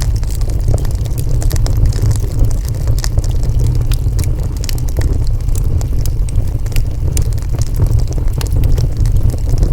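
Wood fire burning: a steady low rumble under frequent small, sharp crackles.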